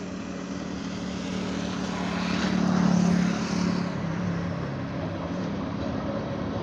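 Low mechanical drone and rushing noise of an approaching electric train. The sound swells to a peak about three seconds in, then eases to a steady level.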